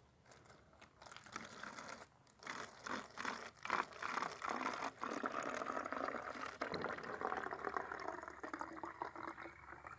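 Water being poured into a cup, coming in a few uneven spurts at first and then a steadier stream that tapers off near the end.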